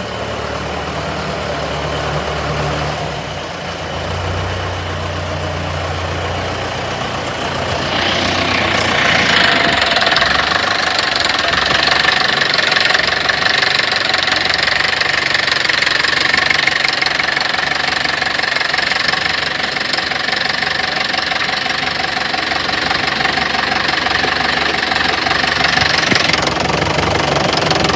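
Tractor engine running, growing louder about eight seconds in.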